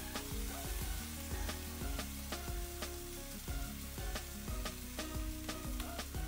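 Food sizzling in a hot non-stick wok as wood ear mushrooms are tipped in. The steady hiss starts as they land and runs under background music with a regular beat.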